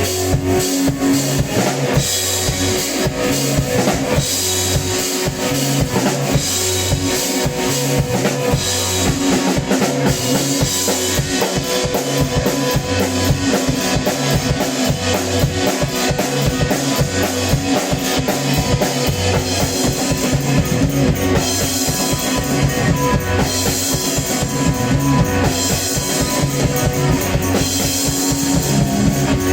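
Live rock band playing an instrumental passage: a drum kit keeps a steady beat of bass drum, snare and cymbals under a repeating bass line and guitars.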